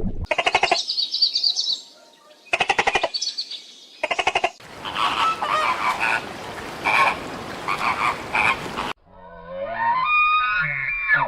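Frogs croaking in rapid rattling trills, three in a row, followed by a busy stretch of overlapping animal calls over a hiss. Near the end a different animal call comes in, rising in pitch.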